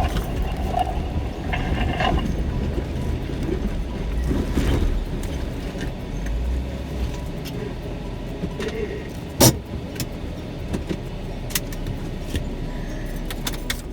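Off-road vehicle engine running at low speed over a rough trail, with scattered clicks and rattles and one sharp bang about nine and a half seconds in.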